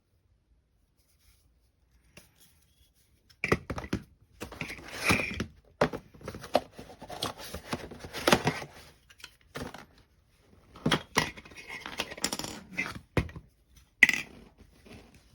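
Handling noises from a handheld vacuum cleaner's plastic parts: irregular clicks, knocks and rustling scrapes, starting about three and a half seconds in.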